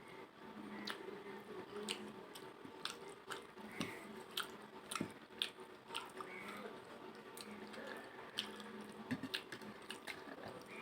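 A person eating close to the microphone: chewing and biting, with frequent irregular sharp clicks and small crunches.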